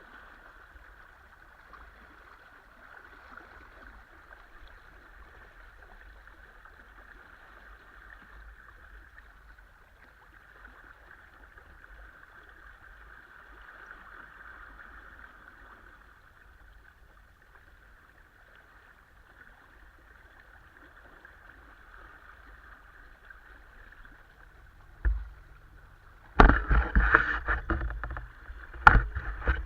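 Steady hiss of water moving past a small sailboat's hull. Near the end come a sharp knock, then a second or two of loud clattering and knocking, then another knock.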